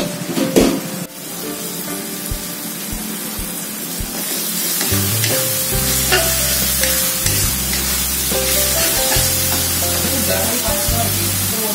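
Spice paste with lemongrass, galangal and bay leaves sizzling in hot oil in a wok while a metal spatula stirs it; the sizzle grows louder about four seconds in. A brief loud clatter about half a second in.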